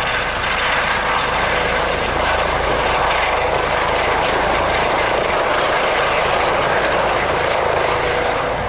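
Aircraft engine running: a steady, loud rushing noise with a faint steady hum.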